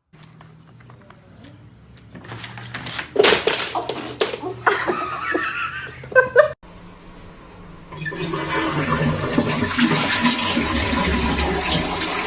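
A toilet flushing, water rushing loudly and steadily from about eight seconds in, after a stretch of clattering knocks.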